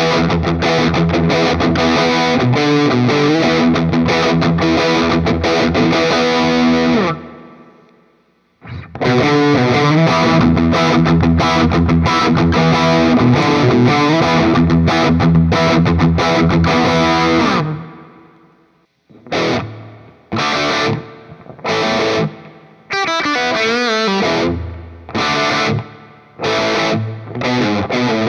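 Distorted electric guitar played through the Flamma FS06 preamp pedal's Marshall Plexi emulation on its dirty channel. Two stretches of ringing, sustained chords, then short, choppy stabs for the last several seconds.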